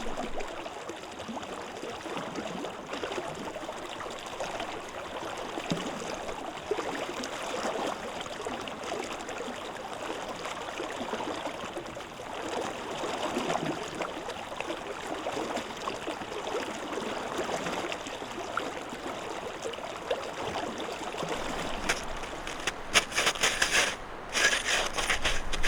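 A small stream running steadily. A cluster of sharper rustling noises sounds about three seconds before the end.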